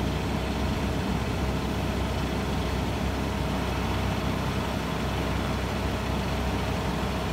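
A vehicle engine idling steadily: an even low hum with a few faint steady tones above it.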